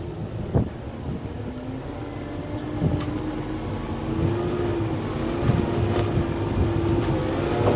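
Kubota M6-141 farm tractor's diesel engine running steadily under load, its note rising a little about halfway through. A few sharp knocks or snaps sound over it.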